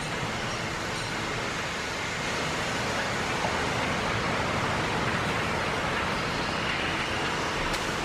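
Freight elevator travelling upward, its machinery running with a steady mechanical noise and a faint high hum.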